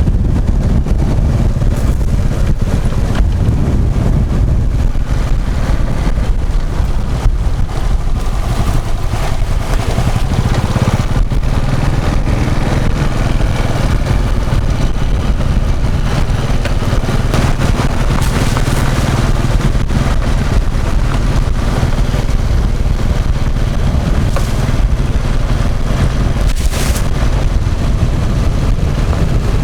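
Steady wind buffeting the microphone, heaviest in the low rumble, with a vehicle engine running underneath while travelling along a road.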